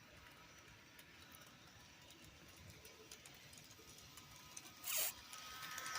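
Small electric motor of a toy train running faintly with a thin steady whine, growing louder near the end, with a brief rustle about five seconds in.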